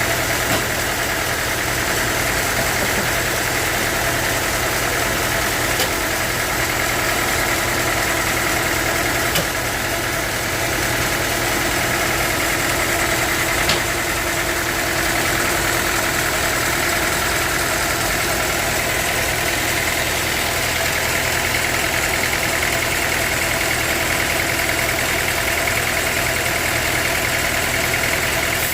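Sawmill machinery running steadily with a constant drone and hum, broken by a few light clicks.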